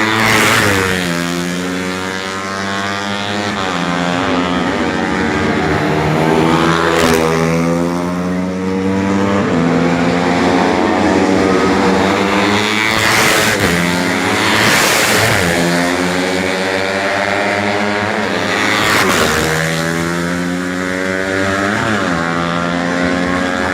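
Four-stroke 125 cc underbone racing motorcycles at full throttle, the engine pitch climbing and dropping back again and again as they shift through the gears, with several bikes passing close by.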